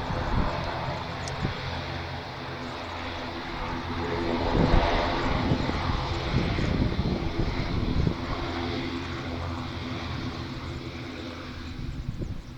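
ATR 72-500 twin turboprop passing on its landing, the propeller drone swelling to its loudest about four to five seconds in and then easing off, with strong crosswind gusts buffeting the microphone.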